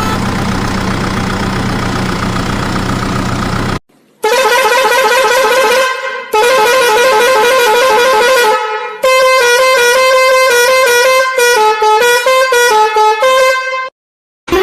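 A vehicle engine running steadily for about four seconds, cut off suddenly, then a vehicle horn sounding a warbling call that turns into a stepped tune of short notes, a musical horn, to near the end.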